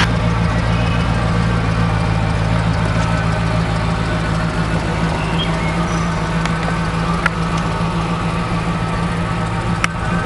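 1979 Lincoln Mark V's V8 engine idling with a steady, even low hum. Two light clicks come late on, one about seven seconds in and one near the end.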